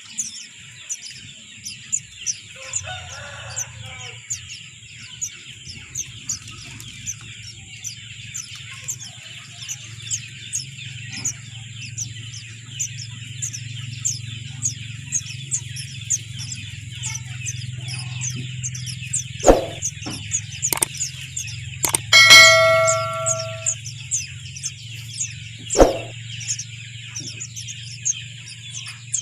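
Small birds chirping in short, high notes about once a second over a steady high-pitched background hiss, with a few sharp knocks and a brief ringing tone about two-thirds of the way through.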